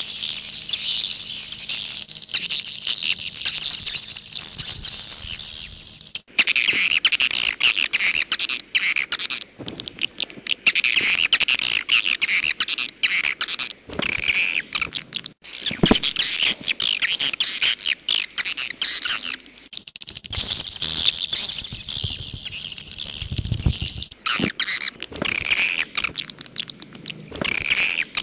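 Swiftlet calls, a dense, continuous, high-pitched chattering of many birds, from a swiftlet lure-call recording. The chattering breaks off abruptly and resumes a few times.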